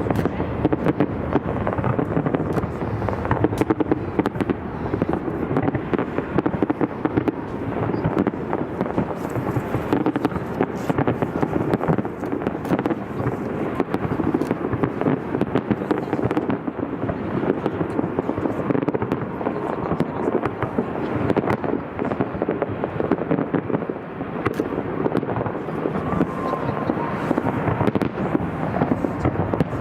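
Fireworks display going off without a break: many bangs and crackles a second over a continuous rumbling noise.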